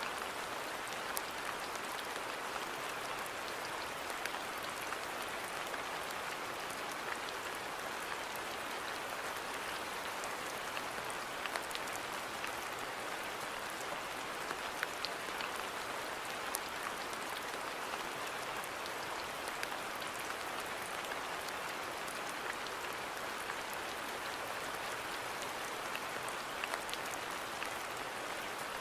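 Steady rain falling, an even hiss with scattered distinct drop ticks throughout.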